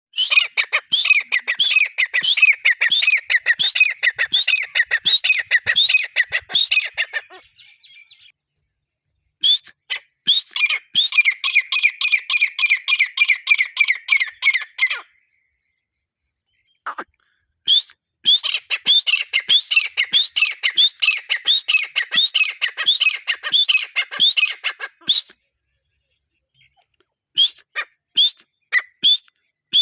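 Grey francolin (desi teetar) calling: long bouts of rapid, repeated high notes. Four runs of several seconds each are broken by short silent pauses.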